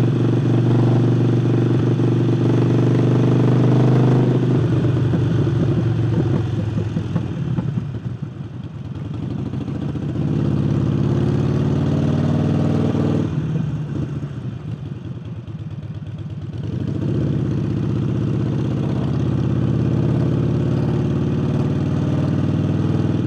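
Harley-Davidson Forty-Eight's air-cooled V-twin running through a newly fitted aftermarket air intake. Its speed rises and falls, easing off about four seconds in and again around thirteen seconds, then pulling back up around ten and seventeen seconds.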